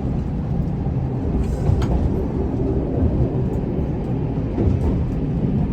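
Cab interior of a single-car railcar rolling along the track with a steady low rumble of engine and wheels, while it slows under light braking. A couple of faint clicks come through about a second and a half in.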